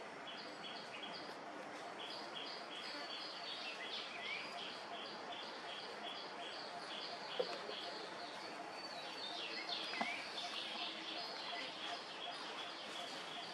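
Outdoor ambience of high bird chirps, a short call repeated about three times a second, with a couple of brief rising squeaks and a single sharp click.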